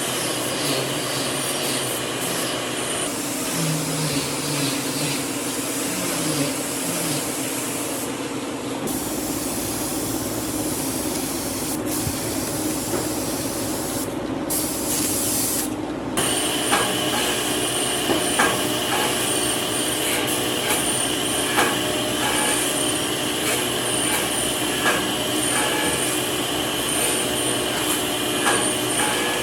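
Woodworking power tools running steadily with a hissing, vacuum-like noise; the sound changes abruptly a few times, about 3, 9 and 16 seconds in, as one machine gives way to another.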